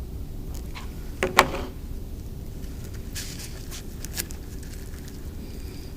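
Tabletop handling noises while working with twine and a hot glue gun: a sharp knock about a second in, then rustling and a few small clicks, over a steady low hum.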